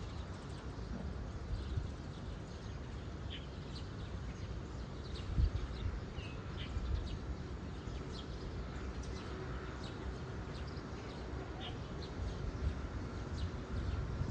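Birds chirping now and then, short high calls over a steady, uneven low rumble, with one low thump about five seconds in.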